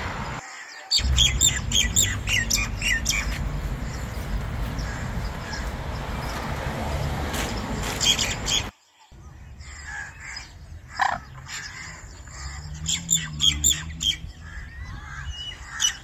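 Birds calling: a quick run of sharp, high squawks and chirps about a second in, over a steady outdoor rumble. Quieter scattered chirps and calls follow in the second half and grow busier a couple of seconds before the end.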